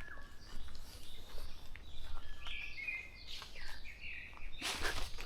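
Dawn chorus of forest birds: several birds calling and singing in short chirping and warbling phrases. A short, loud burst of noise comes about four and a half seconds in.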